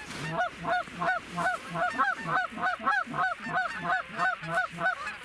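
Hand-blown goose call sounded in a fast, even string of short clucking honks, about three or four a second, each with a low grunt beneath it, calling to geese overhead to draw them into the decoys.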